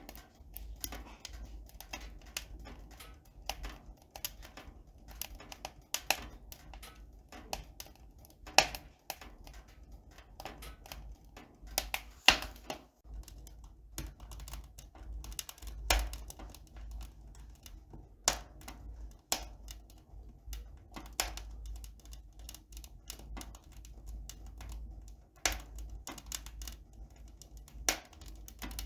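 A run of irregular light clicks and taps, a few a second, some sharper and louder than the rest, over a faint low steady hum.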